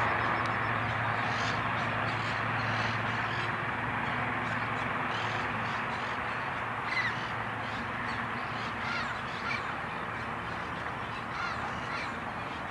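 Helicopter drone slowly fading as it moves away after a low pass, its steady rotor and engine tones dying down, with birds calling over it.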